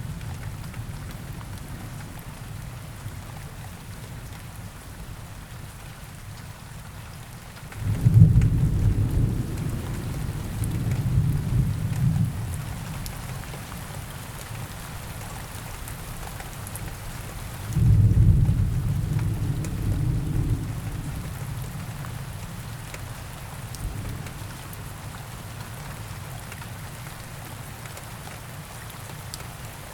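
Steady rain falling in a forest, with two deep rolls of thunder, the first about eight seconds in and the second about eighteen seconds in, each building suddenly and dying away over a few seconds.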